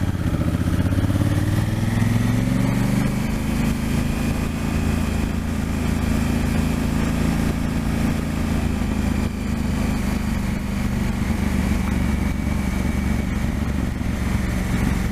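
Motorcycle engine heard from on board while riding: its pitch rises over the first two or three seconds as it accelerates, then it runs steadily at cruising speed over a constant hiss.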